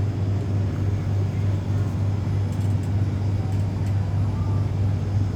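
Steady low hum under a wash of store background noise, with no clear single event.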